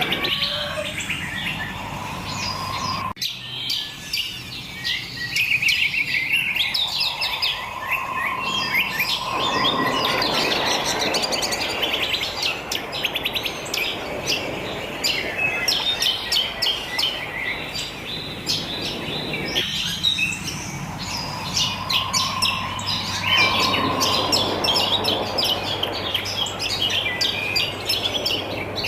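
A chorus of wild birds chirping and singing, many short, quick high calls overlapping without a break. Twice, a lower, held whistling note sounds beneath them.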